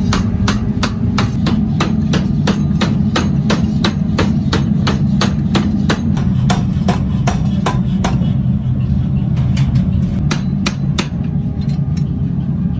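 Metal being hammered in quick, even strikes, about three or four a second, over a steady low machine hum. After about eight seconds the strikes become sparser and uneven.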